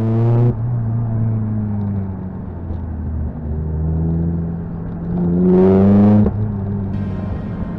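Lotus Elise 220's supercharged four-cylinder engine heard from the open cockpit, pulling up through the gears. Its pitch drops sharply at an upshift about half a second in, holds steady for a few seconds, climbs again and drops at another upshift a little past six seconds.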